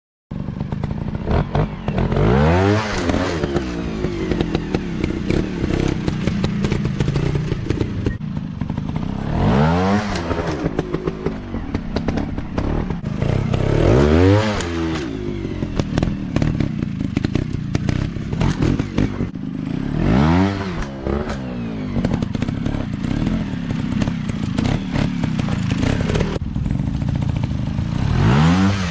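Dirt bike engine running hard on rough ground, revving up and dropping back about five times, with clattering and knocks throughout.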